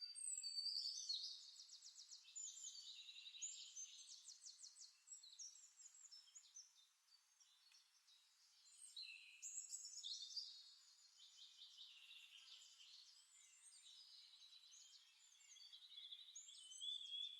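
Faint birdsong: small birds chirping and singing rapid, high trills, overlapping throughout.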